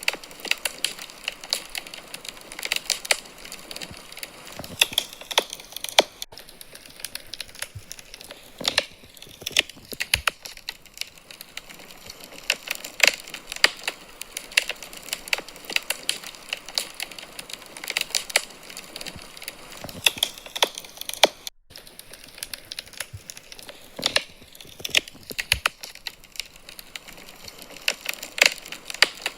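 Wood fire burning in a fireplace, crackling with irregular sharp pops and snaps over a soft hiss.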